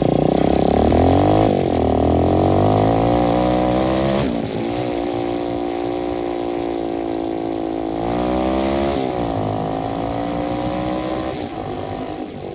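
125cc dirt bike engine under way, its pitch climbing and then dropping back sharply about three times as it goes through the gears, then easing off near the end.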